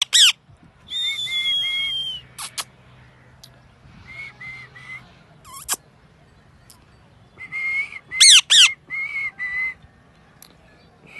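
A pet parrot whistling: sharp falling chirps, a long whistle that drifts slightly down in pitch, and several runs of three short whistled notes, with pauses between them.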